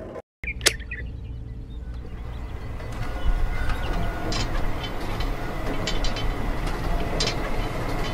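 Small electric motor of a homemade toy tractor running, its gears driving a cultivator whose metal-tipped tines scrape and rattle through sand, with scattered ticks. A click at the start; the running gets louder about three seconds in.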